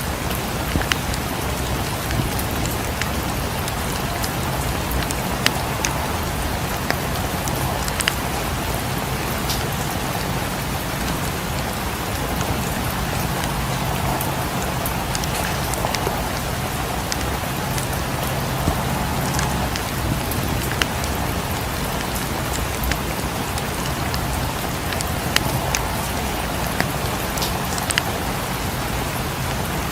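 Steady rain falling, with scattered sharp crackles of a wood fire in a fireplace popping every second or two.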